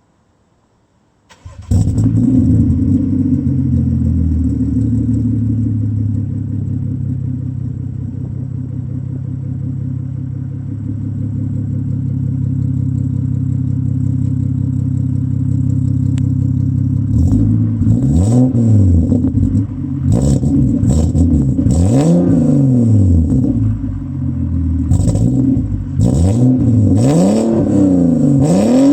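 BMW M135i's N55 straight-six with a top-mount single turbo conversion starting up about a second and a half in and idling steadily, then revved several times near the end, the pitch rising and falling with each blip.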